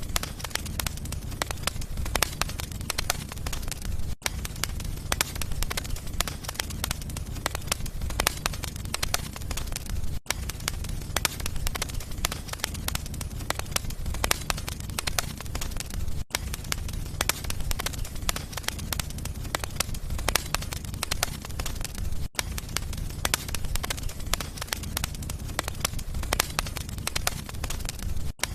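Wood fire crackling in a fireplace: dense, irregular crackles and pops over a steady low rumble, with a momentary dropout about every six seconds.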